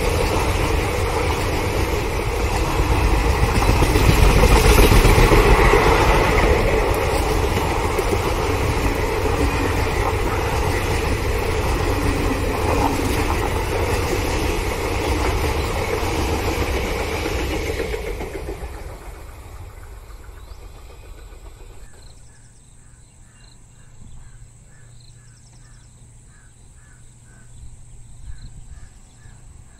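Long train of passenger coaches rolling past on the track, a steady rumble of wheels and bogies that fades away about 18 to 22 seconds in. Then insects chirp in a regular pulse, roughly two a second.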